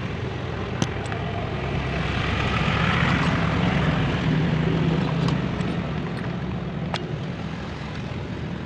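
An engine running steadily, growing louder for a few seconds in the middle, with a few sharp clicks.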